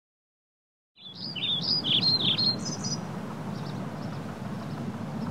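Silence for about a second, then a songbird singing a quick run of chirps and warbles over a steady low outdoor rumble; after about three seconds the song drops to faint, scattered chirps.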